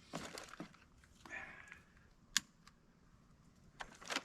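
Dry kindling snapping and rustling as a freshly lit campfire is tended, with scattered small cracks and one sharp snap about two and a half seconds in.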